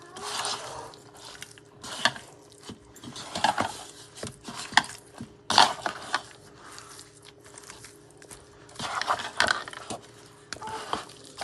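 Raw chicken leg pieces being mixed by hand with spice powders in a bowl: irregular bursts of wet squishing and handling, with a few sharp knocks against the bowl.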